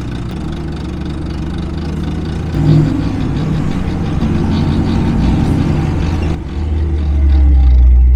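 A 1963 Super Sport convertible's engine and exhaust running steadily while driving, growing louder about two and a half seconds in and again near the end.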